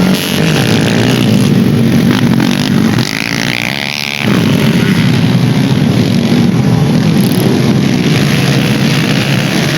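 Dirt bike engines running loudly on a dirt race track, with one bike revving to a higher pitch for about a second around three seconds in.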